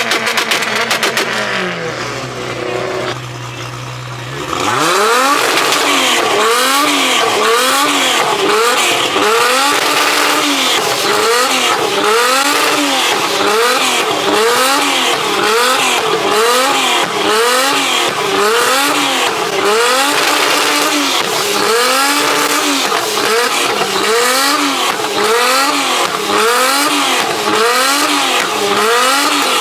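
A car engine being revved hard and repeatedly, its pitch climbing and falling about once a second after a brief steady running note at the start.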